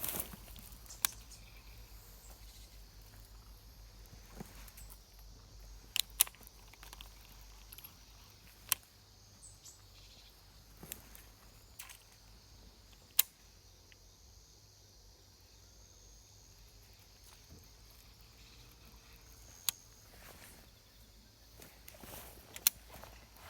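Quiet outdoor ambience with a steady high insect hum, broken by sharp clicks every few seconds.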